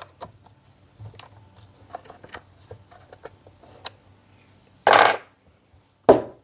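Light clicks and taps of hands handling a chainsaw and tools, with a louder metallic clatter about five seconds in that rings briefly, and a sharp knock near the end.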